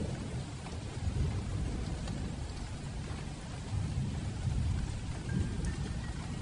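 Heavy rain drumming on a metal roof under low rolling thunder; the rumble swells about four seconds in.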